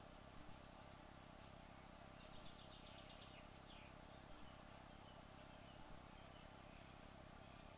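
Near silence with a faint chirping, a quick series of high notes a little over two seconds in, and soft double ticks every couple of seconds.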